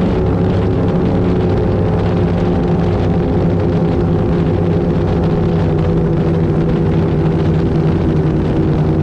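Avanti 33 powerboat's twin V8 engines running at a steady, unchanging speed, a loud even drone with no changes in pitch.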